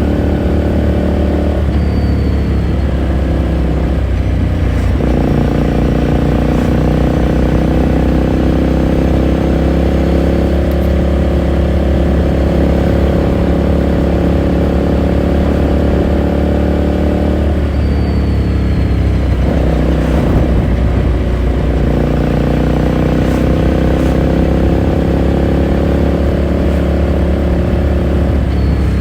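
2018 Ducati Scrambler Sixty2's air-cooled 399 cc L-twin running under way, its pitch climbing slowly through two long pulls. It breaks off briefly four times for gear changes or throttle lifts, about two, five, eighteen and twenty seconds in.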